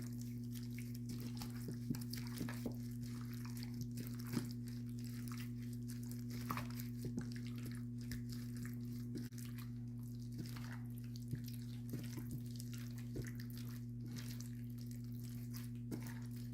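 Hands mixing chicken drumsticks in a wet marinade of tomato puree, crushed garlic and oil: soft squelching and small scattered clicks. A steady low hum runs underneath.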